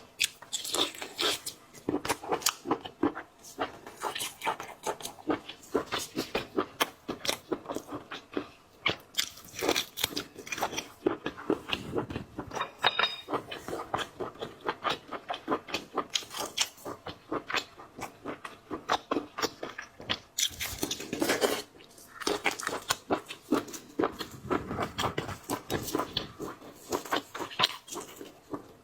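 Close-miked eating of seafood: a dense, irregular run of crunches, chewing, lip smacks and sucking.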